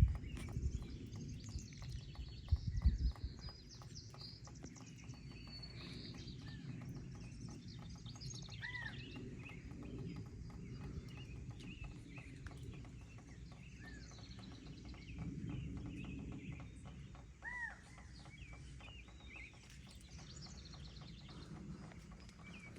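Several songbirds chirping and singing, with one arched call note coming back every few seconds, over a steady low rumble. Two low thumps stand out in the first three seconds.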